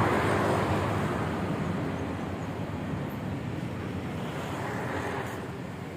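Rushing noise of a vehicle passing, loudest at the start and fading away.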